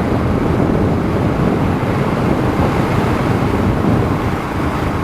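Steady wind rush over the microphone mixed with the road and engine noise of a motorcycle riding along.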